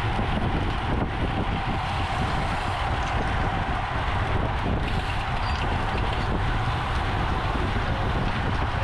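Steady wind rushing over the microphone of a camera on a bicycle moving at race speed, with a constant low rumble underneath.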